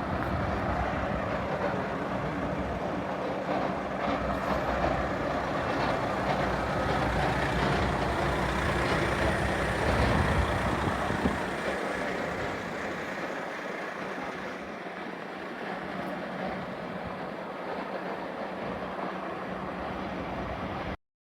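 A train moving at a station platform: a steady rumble that builds to a peak about halfway through, then eases off, before the sound cuts off abruptly just before the end.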